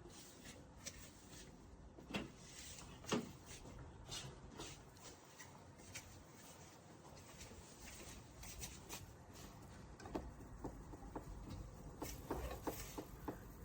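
Faint scattered clicks and knocks over low room noise. Two stronger knocks come about two and three seconds in, and a quick run of clicks near the end.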